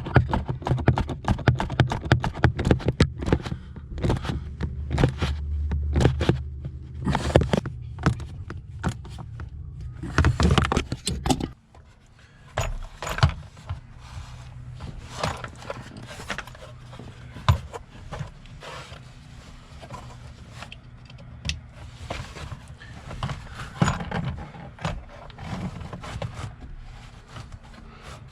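Clicks, knocks and scrapes of hand work on a car's interior trim and gear-shift parts, busy at first over a steady low hum that cuts off suddenly about eleven seconds in, then sparser and quieter.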